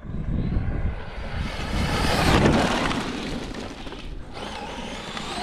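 Electric RC truck driving past at high speed: its motor whine and running noise swell to a peak about two and a half seconds in, then fade.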